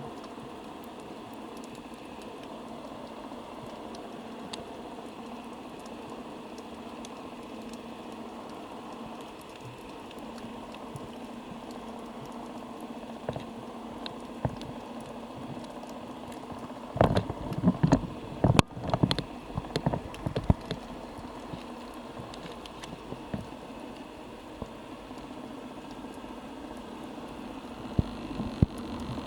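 Underwater sound picked up through a camera's underwater housing: a steady hiss and murmur of water with scattered small clicks, broken a little past halfway by a few seconds of loud, irregular bumps and rushing water, with more near the end.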